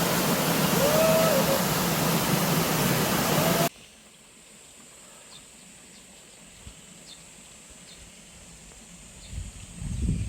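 Loud, steady rushing of a mountain stream and waterfall, with a short rising-and-falling call repeating about every two seconds. About four seconds in it cuts off suddenly to a much quieter scene with faint, sparse high ticks and a low rumble near the end.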